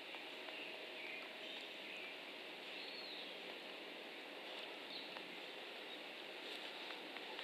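Steady outdoor hiss of wind and leaves, with a few short, high bird chirps scattered through it.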